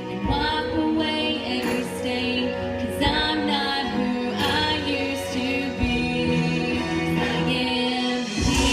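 A woman singing a slow melody with long held notes over instrumental backing.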